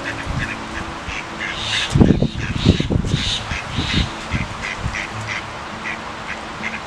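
Ducks quacking among other birds calling in short, repeated notes, with a few loud low thumps about two seconds in.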